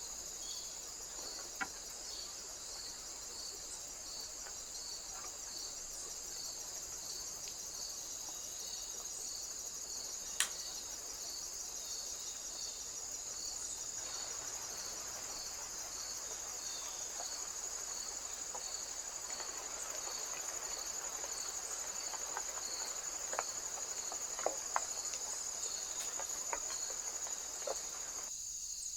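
Steady insect chorus: a continuous high trill with a regularly pulsing chirp just below it, and a few sharp clicks.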